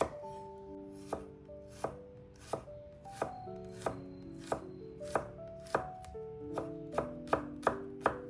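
Knife chopping on a cutting board: about a dozen even chops, roughly one every two-thirds of a second, coming a little faster near the end, over background music with held notes.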